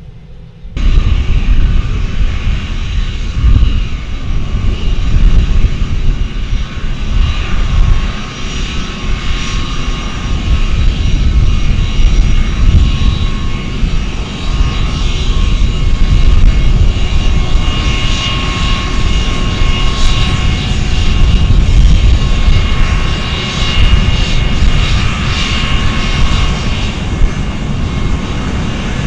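Aircraft engines running loud: a deep rumble with a steady high whine over it, starting abruptly about a second in.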